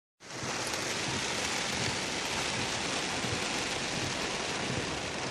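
Rain falling steadily, a continuous even hiss with faint patter.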